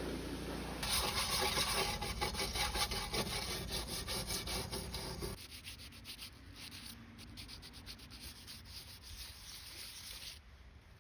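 Rapid scraping and rubbing strokes, typical of hardened old gasket material being cleaned off a Ford 300 inline-six's sealing surface. The strokes are loud over a steady low hum for the first half, then turn lighter and quieter until near the end.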